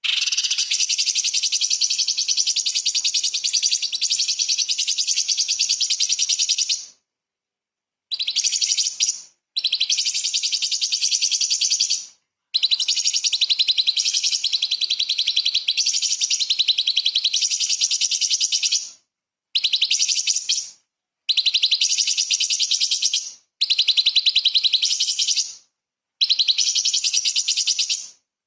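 Orange-bellied leafbird (cucak cungkok) singing long, fast, dense phrases of high chattering notes. About eight phrases, the first and one in the middle several seconds long, each ending abruptly in a short gap of half a second to a second.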